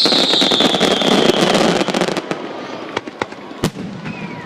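Fireworks: a loud whistling shell whose pitch falls steadily and fades out in the first two seconds, over dense crackling. After that come scattered pops and a single sharp bang about three and a half seconds in.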